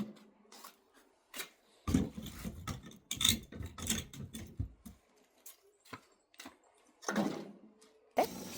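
Firewood being handled for a fire: wooden knocks and rubbing, with scattered sharp clicks. A busier stretch of knocking comes a couple of seconds in, and a steady hiss starts near the end.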